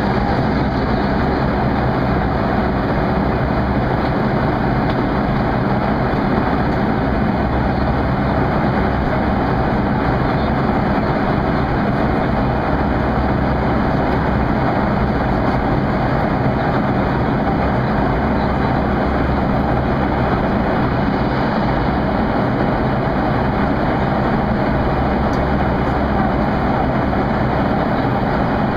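Steady jet engine and airflow noise heard inside the cabin of a Boeing 737-300 airliner, an even rushing sound over a low drone with no change in level.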